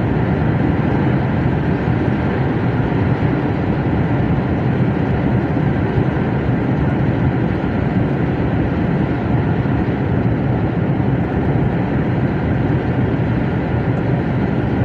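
Steady engine and road noise inside a truck cab while driving, a constant low drone with no changes.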